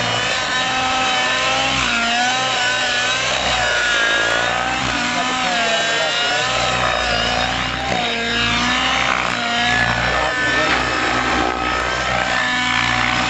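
YS 91 SR nitro glow engine of an Avant EFX radio-controlled helicopter running at high speed. Its pitch wavers up and down continually as the load changes in flight.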